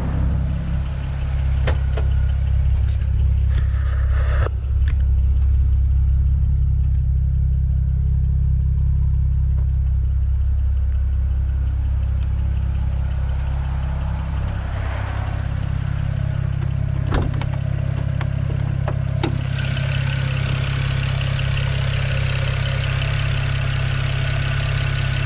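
BMW 335i straight-six with an upgraded single turbo idling steadily, a low even drone. A few sharp clicks, and a steady hiss joins it about 20 seconds in.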